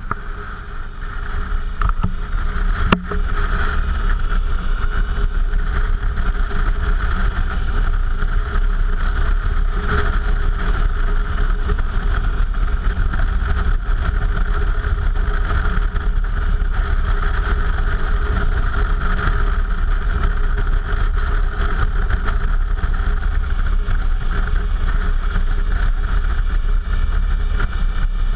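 Suzuki V-Strom motorcycle under way, a steady engine drone mixed with wind rush on the camera's microphone. A single sharp click about three seconds in.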